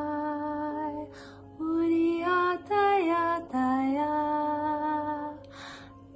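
A woman chanting light language: long, held sung notes on wordless syllables that step up and down in pitch, with breaths between the phrases.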